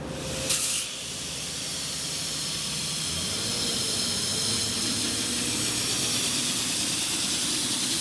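High-pressure water jetting from a sewer flush truck's hose and nozzle: a short sharp burst about half a second in, then a steady high-pitched spraying hiss that builds over the next few seconds and holds.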